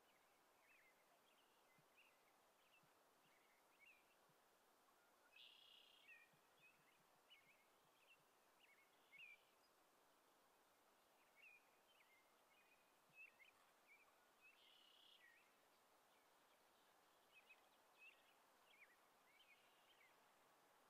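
Near silence with faint, scattered bird chirps throughout.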